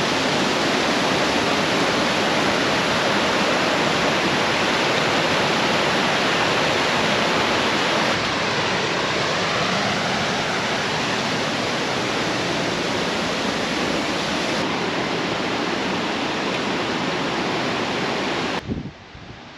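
Steady loud rush of Upper Yosemite Fall's falling water. It cuts off suddenly near the end.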